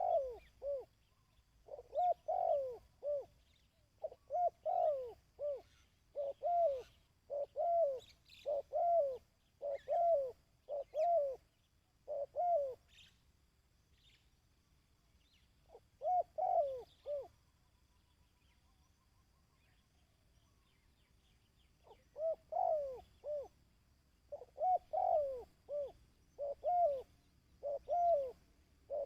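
Dove (chim cu) cooing: short phrases of three or four low notes repeated about once a second, breaking off about halfway for several seconds with a single phrase in the gap, then resuming.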